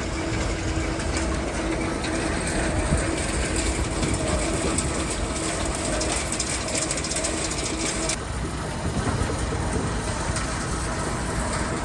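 Sawdust-processing factory machinery running: a steady, dense mechanical din with a steady hum and fast fine ticking. About eight seconds in, the higher part of the noise cuts off abruptly and the machinery sounds duller.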